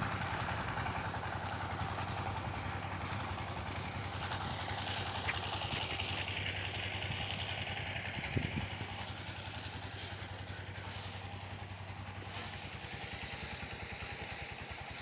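A small engine running steadily at idle, with a fine, even pulse throughout and a couple of faint knocks about a third and halfway through.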